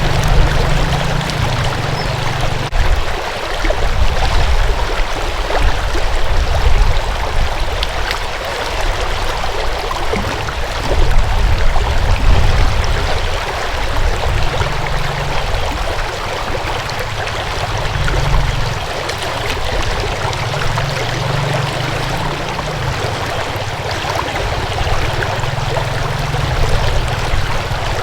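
A stream of water flowing and splashing steadily, with a low rumble underneath that swells and fades every few seconds.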